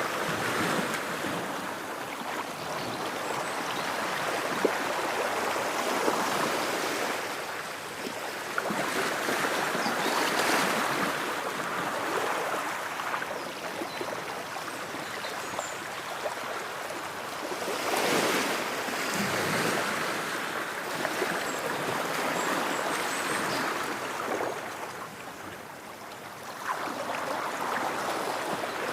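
Ocean waves washing on a shore, a steady hiss that swells and eases every few seconds as the waves break and run back.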